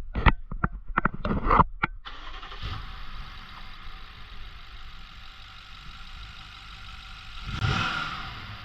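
2014 BMW 650i's 4.4-litre twin-turbo V8 cranked with a few short clicks and bursts, catching about two seconds in and settling into a steady idle. Near the end it briefly rises in loudness with a short blip of the throttle.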